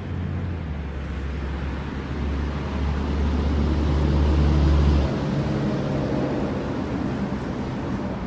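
Boat engine running as a low, steady drone over a continuous hiss, growing louder and then dropping off sharply about five seconds in.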